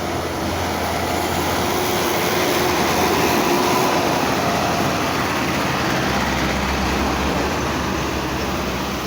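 Truck engine running under load with heavy road noise. The noise swells a little in the middle, and a low steady engine hum comes in during the second half.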